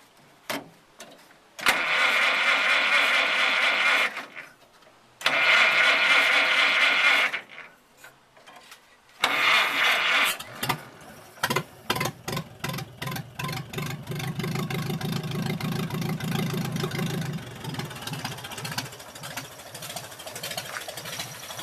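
1928 Chevrolet four-cylinder overhead-valve engine being cranked by its starter motor after sitting unrun for over 50 years: two short bursts of cranking, then a third where it catches and fires unevenly with sharp pops before settling into an idle.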